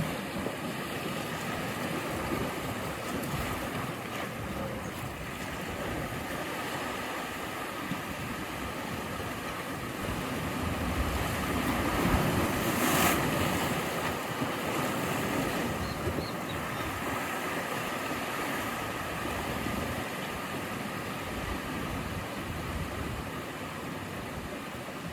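Ocean surf: a continuous wash of waves, swelling to a louder breaking wave about halfway through and then easing back.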